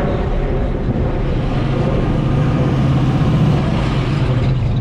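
A car engine running, with a steady low hum that swells about halfway through and eases off near the end.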